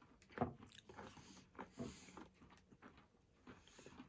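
Faint, irregular crunching of a hard peanut and sesame candy bar being chewed, in short crackles and clicks with the strongest about half a second and two seconds in.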